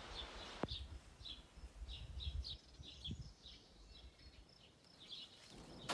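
Faint outdoor ambience of small birds chirping in short, irregular high calls. There is a low rumble through roughly the first half and a single click about half a second in.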